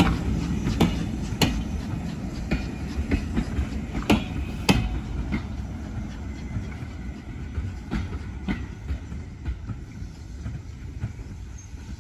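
Passenger coaches rolling past on the track: a low wheel rumble with sharp clicks, often in pairs, as the wheels cross rail joints. It fades steadily as the last coach draws away.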